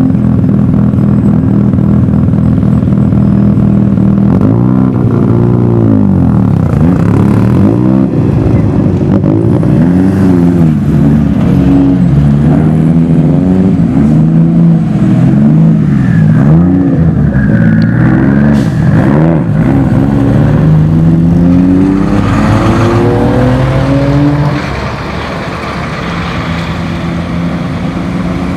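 A car engine idling, then revved up and down over and over, roughly every second and a half, before dropping back and quieter near the end.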